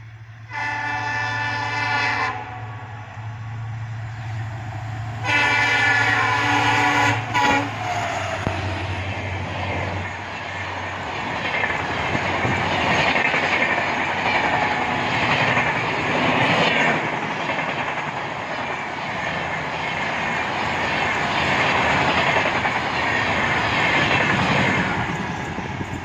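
WDP-4B diesel locomotive sounding its horn in two blasts, each about two seconds long, the second ending in a short extra toot. The train then rushes past at speed: about 17 seconds of loud wheel and air noise from the LHB coaches, with a rhythmic clatter of wheels over the rail joints.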